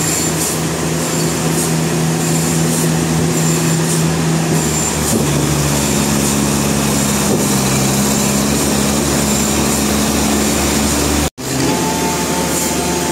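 Sawmill engine running steadily, its pitch shifting about five seconds in. The sound cuts out abruptly for an instant near the end, then resumes.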